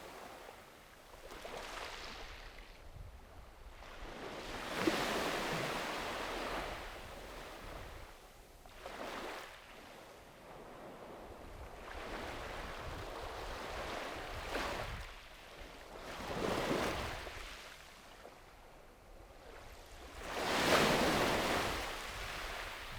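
Small sea waves washing onto the beach, one after another, each a swelling rush of surf that fades before the next. The largest breaks near the end.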